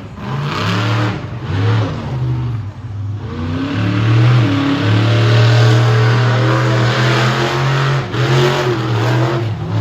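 Monster truck engine revving hard in short bursts, then held at high revs for about four seconds before blipping again.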